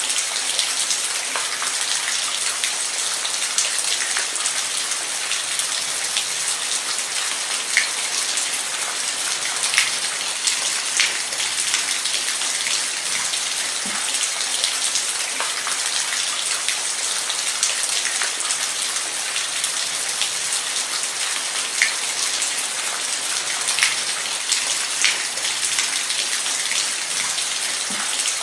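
Steady rain falling, an even hiss with individual drops ticking sharply on a nearby surface every second or so.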